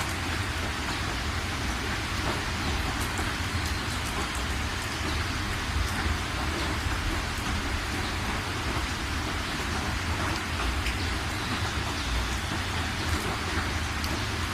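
Steady rain falling, an even hiss with many small drop ticks over a constant low rumble.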